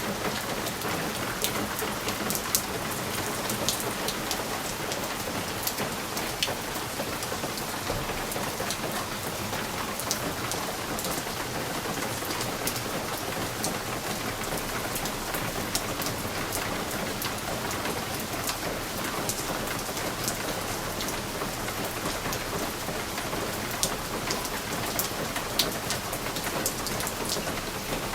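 Steady rain falling, with many sharp individual drops ticking against window glass scattered through the hiss.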